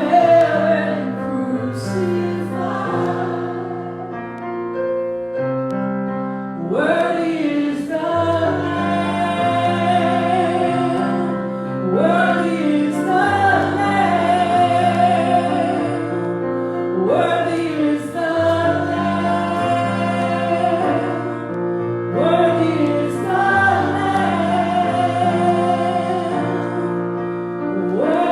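Worship music: a group of voices singing a slow song over sustained keyboard chords and bass, phrases starting about every five seconds.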